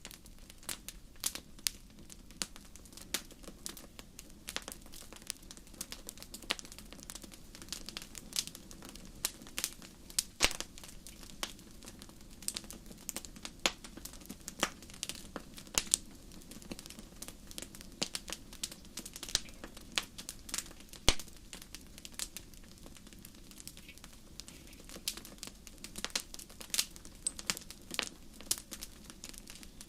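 Campfire crackling: irregular sharp pops and snaps of burning wood, several a second, over a steady low rush of the flames.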